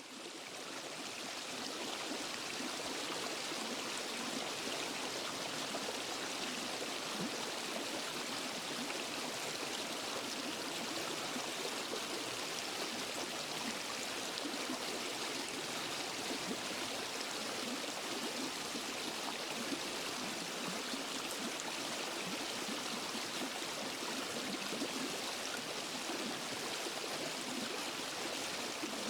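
Waterfall and stream water rushing steadily, a dense even hiss with no breaks; it fades in over the first second or two, then holds level.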